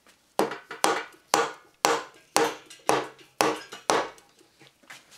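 Eight hammer blows, about two a second, struck up on the intake port of a Yamaha XT550 engine, each with a short ring. They are meant to split a stuck joint in the engine apart.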